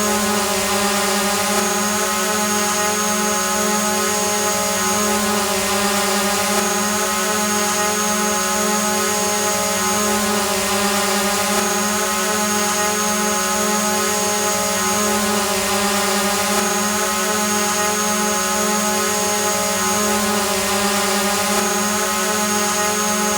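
Quadcopter drone hovering: a steady, unbroken buzzing whine from its spinning propellers, holding one pitch over a hiss of rushing air.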